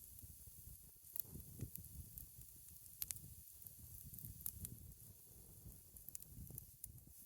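Campfire burning faintly, with scattered sharp pops and snaps of burning wood over a low rumble.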